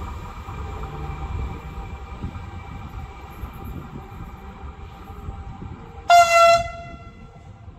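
Electric regional train, an E464 locomotive at its end, running away down the line, its rumble and faint steady whine fading. About six seconds in comes one short, loud train horn blast on a single pitch.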